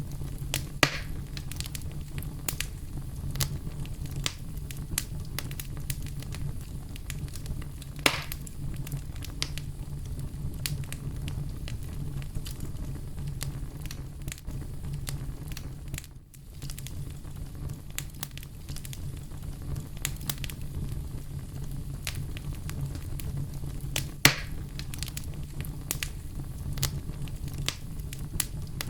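Wood bonfire burning: a steady low rumble with frequent small crackles and three louder pops, one about a second in, one near eight seconds and one in the last few seconds. The sound drops out briefly about halfway through.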